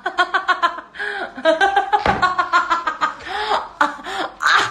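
Women laughing in quick, repeated ha-ha pulses, with bits of speech mixed in.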